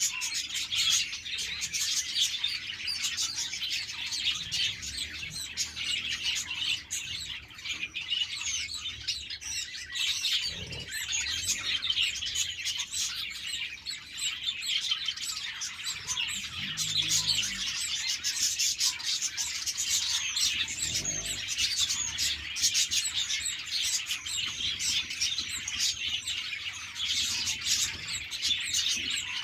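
A flock of budgerigars chirping and warbling continuously, many birds calling over one another in a dense, unbroken chatter.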